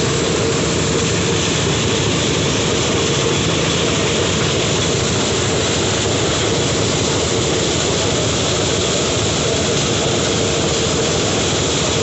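Engine-driven rice harvesting machine running steadily under load, a continuous engine drone with a steady whine over it.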